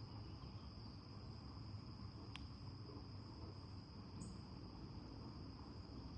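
Faint, steady high trill of crickets from a nature-sounds backdrop, with a single soft click a little over two seconds in.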